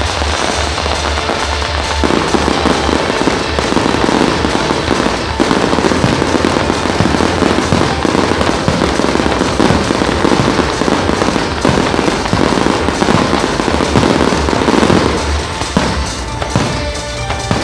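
Dense barrage of firework shells bursting and crackling over loud music with a pulsing bass. The bursts thicken about two seconds in and thin out near the end, leaving the music to the fore.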